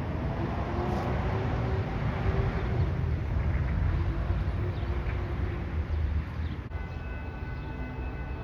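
Train running past with a heavy, steady rumble and a few slowly rising engine tones. About seven seconds in the sound changes abruptly and a steady high-pitched tone holds.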